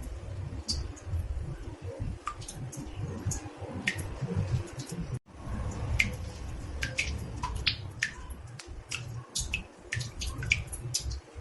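Water dripping into a bathtub: irregular drops, about three a second, each a short plink at a different pitch, over a low rumble. The sound cuts out for a split second about five seconds in.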